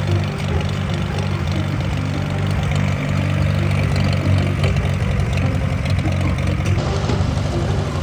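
Old Farmall tractor engine running steadily at idle.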